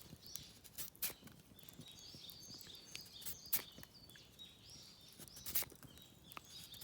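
Knife shaving a fallen cherry branch, a series of short, sharp scrapes at irregular intervals, the loudest about halfway and near the end. Birds chirp faintly in the background.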